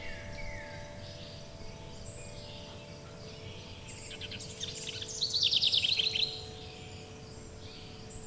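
Songbird singing a quick trill of rapid notes, loudest about five seconds in, with fainter calls before it. Underneath, wind chimes hold steady, ringing tones over a constant soft hiss of background noise.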